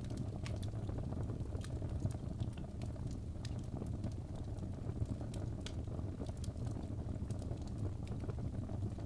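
Wood fire burning in a fireplace: a steady low rumble of flames, with irregular sharp crackles and pops from the burning wood.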